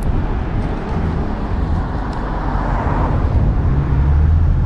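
BMW Z4 being driven: a steady low engine hum under continuous road and wind noise.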